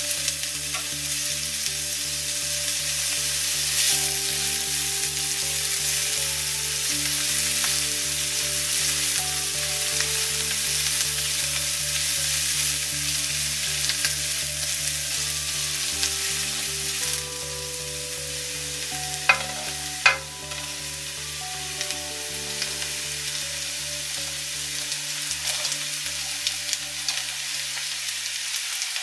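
Chopped onion, garlic and ginger sizzling in hot oil in a frying pan while being stirred with a spatula. The sizzle eases a little about two-thirds of the way through, and two sharp knocks follow shortly after.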